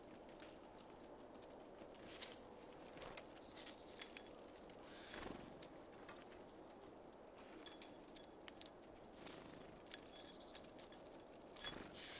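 Small birds at a feeder: irregular sharp taps and clicks as they land, hop and peck at seeds, with a few faint high chirps.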